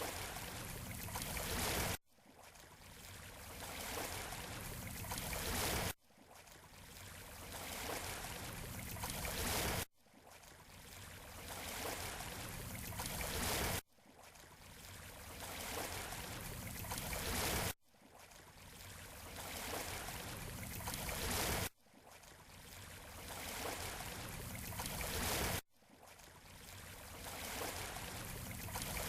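Surf washing on a beach shoreline, in a short repeating loop: each pass swells over about four seconds and then cuts off abruptly, over and over.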